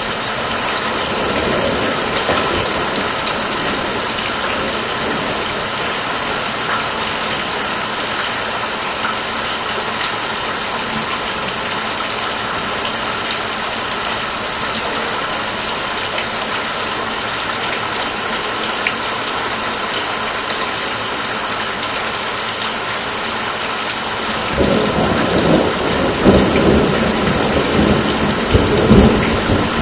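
Steady rain falls throughout. About three-quarters of the way through, a low thunder rumble builds in and carries on to the end with a few sharp cracks.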